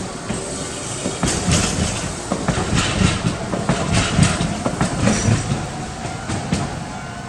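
Streetcar running on its rails, the wheels clacking over the rail joints in a string of knocks over a rumble. It is loudest in the middle and eases off near the end.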